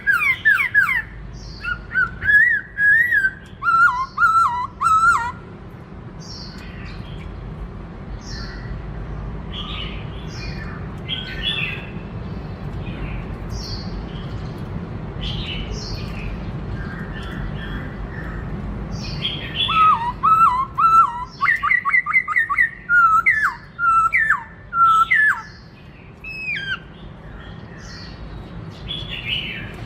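Black-throated laughingthrush singing: loud whistled phrases with quick jumps in pitch over the first few seconds, softer chirps for a stretch, then another long run of loud whistled phrases a little after the middle. A steady low hum sits under the song.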